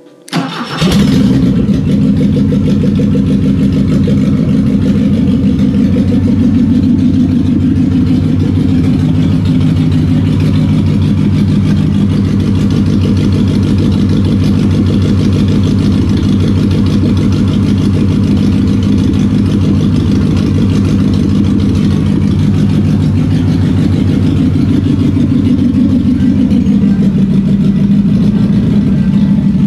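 BMW 2002 tii 2.0-litre four-cylinder engine, running on its rebuilt Kugelfischer mechanical fuel injection pump on an open test stand. It comes in abruptly about half a second in, then runs at a steady speed.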